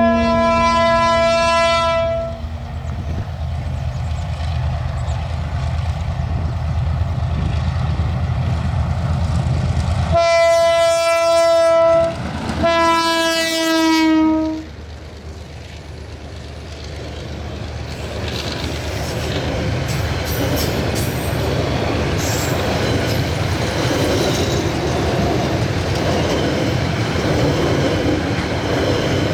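Diesel train passing close by: its horn sounds once at the start and twice more about ten seconds in, the last blast falling slightly in pitch, over a low steady rumble. From about halfway the wheels clatter over the rails as the cars roll past.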